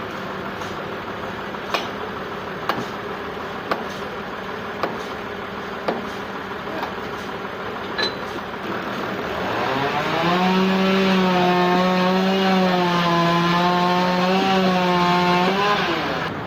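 Sawmill machinery running with a steady hum and sharp knocks about once a second. About halfway through, a saw motor's pitch rises and holds steady with a slight waver, as under cutting load, then drops away just before the end.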